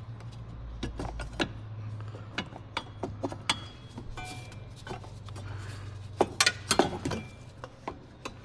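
Irregular clicks, knocks and clinks of a bracket and its clips being handled and worked loose under the hood, with a brief metallic ring near the middle. A steady low hum runs underneath.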